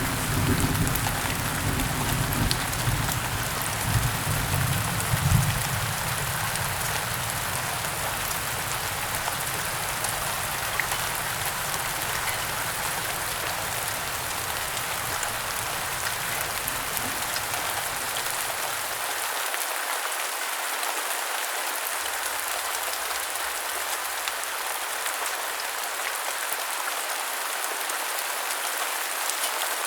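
Heavy rain falling steadily, with a low rumble of thunder in the first several seconds that dies away.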